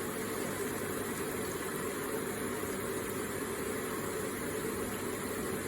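Electric water feature with water trickling and splashing steadily.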